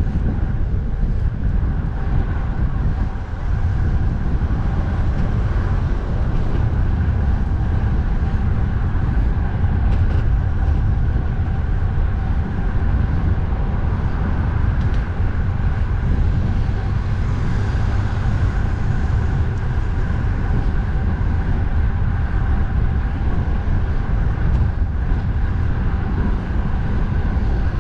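Wind buffeting the microphone over steady road traffic noise while cycling alongside an expressway, with a faint steady whine on top.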